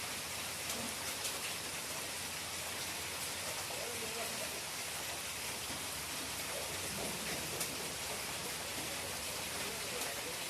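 Steady hiss of falling water, even and unbroken, around a bathing bird.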